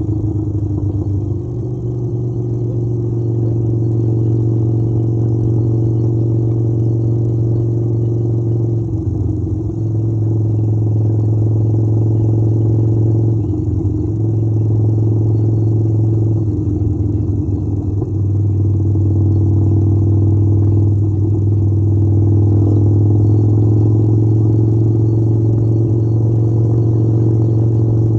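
Harley-Davidson motorcycle engine running steadily while riding. Its note dips briefly three times before settling back.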